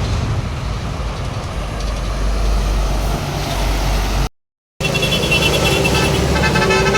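Road traffic with heavy vehicles going by, a steady low engine rumble under it. The sound cuts out for about half a second a little past four seconds in, then a steady high tone comes in on top of the engine noise.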